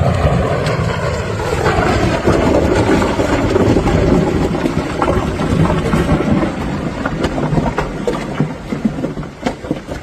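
Loud, steady rushing noise with a low rumble. It eases off after about seven seconds into scattered clicks and knocks.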